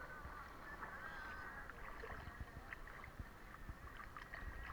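Faint sloshing and lapping of sea water around the camera, with light scattered splashes from front-crawl strokes.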